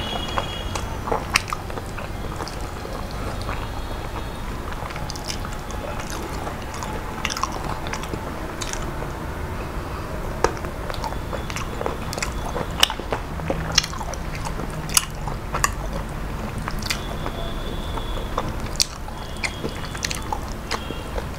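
A man chewing a mouthful of rice and chicken close to the microphone, with wet mouth sounds and lip smacks and many sharp clicks scattered throughout.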